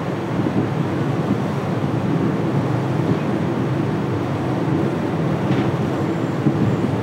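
Passenger train coach running at speed: a steady rumble of wheels on the rails, heard at an open coach window.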